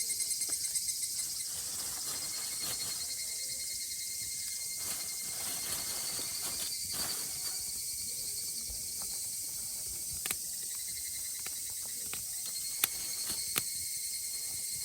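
A chorus of cicadas buzzing steadily at a high pitch, with a few sharp clicks standing out near the end.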